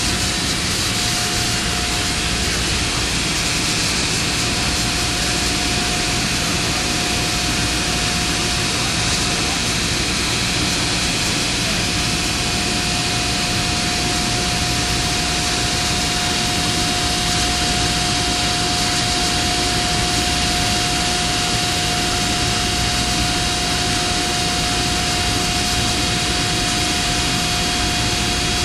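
Steady loud rushing noise of running industrial plant machinery, such as a large fan or blower, with a constant mid-pitched tone and fainter higher tones over it.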